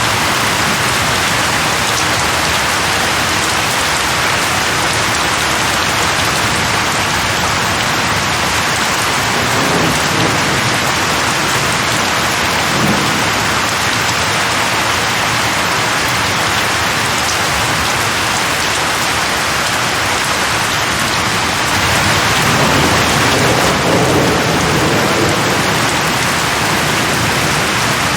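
Steady heavy rain falling, a dense even hiss. Low rumbles of distant thunder swell in and out about ten and thirteen seconds in, and a longer one from about twenty-two to twenty-six seconds.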